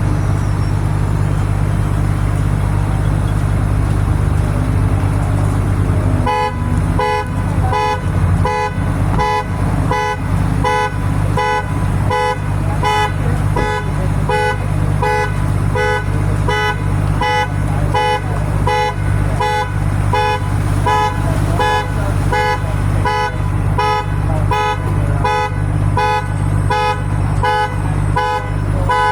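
Dump truck's diesel engine running steadily. About six seconds in, a repeating electronic beeper starts, sounding the same pitch about one and a half times a second, like a truck's reversing alarm.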